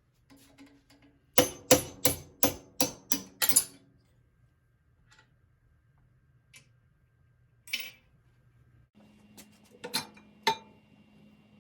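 A hammer striking metal in a quick run of seven blows, about three a second, followed by a few scattered knocks and clinks.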